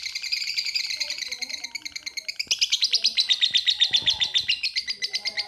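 Lovebird giving a long 'ngekek': a continuous, rapid chattering trill of sharp high notes, about ten a second, in the style fanciers call 'kereta uap' (steam train). It grows louder and more clearly pulsed about halfway through.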